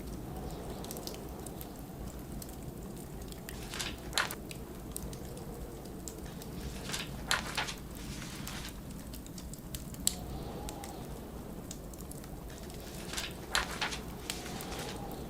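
Wood fire crackling in a fireplace over a steady low blizzard wind, with a faint howl that rises and falls now and then. Three short papery rustles of pages being turned stand out.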